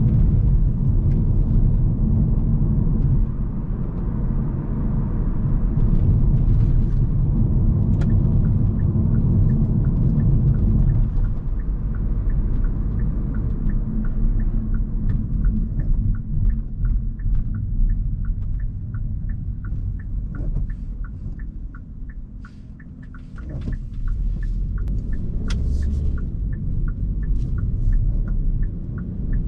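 Hyundai Kona Hybrid's cabin road rumble while driving, louder for the first ten seconds or so and then easing off as the car slows, dropping lowest a little past the middle. From about a third of the way in, a regular ticking about twice a second runs over it, typical of the turn-signal indicator.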